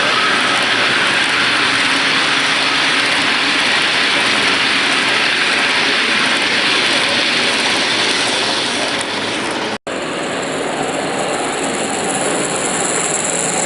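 A model train running on a layout, a steady noisy rumble. It cuts out for an instant about ten seconds in and comes back with a stronger high hiss.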